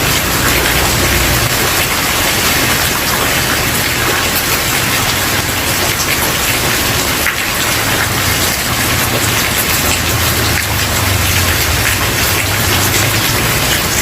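Steady rain falling on a wooden porch, an even dense hiss of drops with no sudden noises. A low rumble underneath fades and swells.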